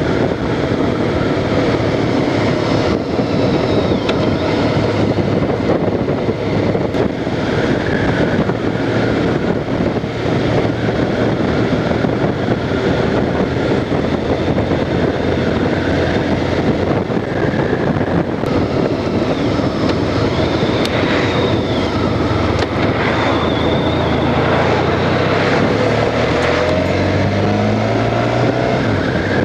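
Honda Crosstourer's V4 engine running on the move, with a dense rush of wind and road noise. Near the end the engine note rises as the bike accelerates.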